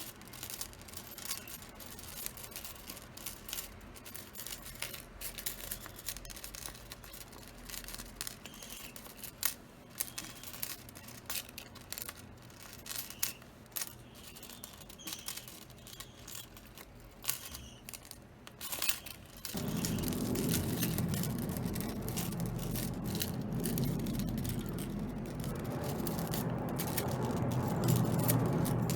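Small metal chain toy rattling and clicking irregularly as budgerigars play with it. About twenty seconds in, a steadier, fuller low sound comes in and continues.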